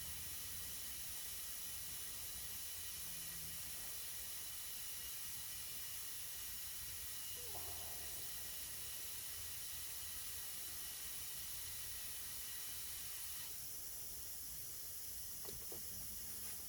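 Compressed air hissing steadily through a tire chuck as a Humvee tire is inflated after its bead was set with ether. The hiss changes slightly in tone about three-quarters of the way through.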